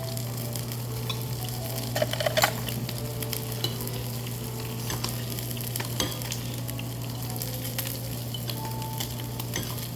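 Meat sizzling as it cooks at the table, a steady frying hiss over a constant low hum, with a few light clicks of utensils.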